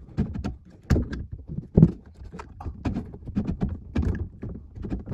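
Irregular clicks and knocks, a few with a dull thump, of a hex wrench worked back and forth in the bottom socket of a jammed garbage disposal to free the stuck grinder.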